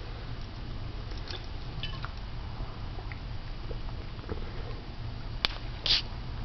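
Sun conure making small clicking and chewing-like noises, with a few faint chirps. A sharp click comes about five and a half seconds in, followed at once by a short raspy burst, the loudest sound.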